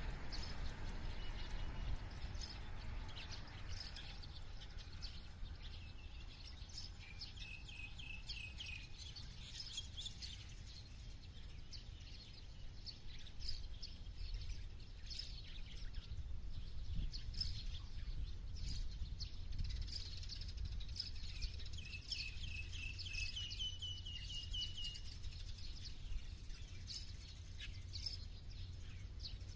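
Several birds chirping, with many short high chirps and two longer trilled song phrases, one about seven seconds in and one about twenty-one seconds in, over a steady low rumble.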